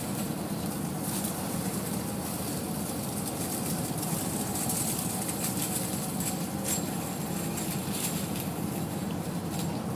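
Steady low rumble of an engine running, with a few faint ticks over it.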